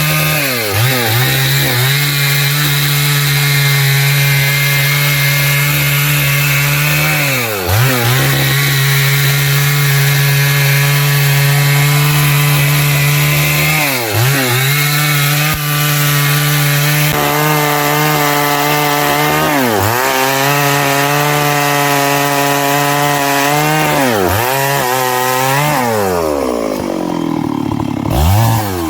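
Stihl MS382 two-stroke chainsaw with a 24-inch bar running at full revs while cutting through a large log. Its engine speed dips and picks back up every few seconds. Near the end it drops off the cut toward idle, then gives a short rev.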